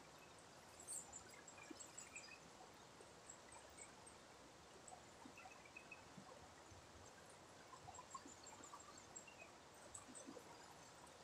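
Faint river water trickling and flowing, with scattered small drips and splashes.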